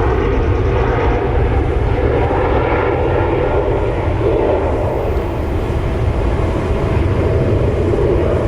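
Jet airliner engines running loud and steady, a dense rumbling roar with a faint steady whine over it in the second half.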